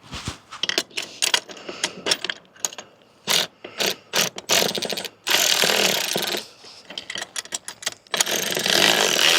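Hand ratchet wrench clicking in quick runs as bolts are tightened, with two longer, denser stretches of ratcheting about five seconds in and near the end.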